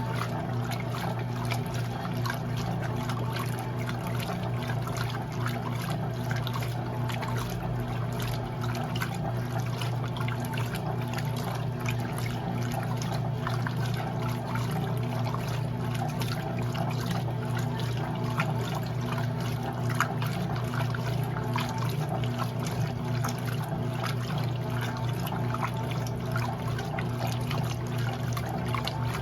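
Electrolux LE06DBD top-load washing machine with water pouring and trickling in its tub, steady throughout over a constant low hum.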